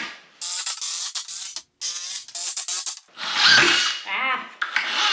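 Cordless drill driving wood screws through 2x3 rungs into the studs: two short runs of about a second each, then a longer run from about three seconds in.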